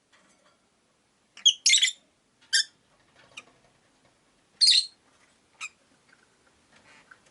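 Rosy-faced lovebirds giving short, high-pitched chirps: a quick cluster of calls about a second and a half in, then single calls spaced about a second apart.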